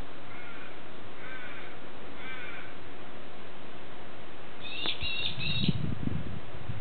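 A bird calling: three short calls about a second apart, then a louder, quicker run of notes about five seconds in. Low wind or handling rumble follows the last calls.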